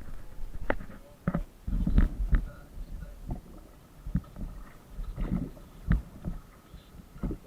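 Small boat being paddled on a river: irregular knocks against the hull and low sloshing of water, loudest about two seconds in.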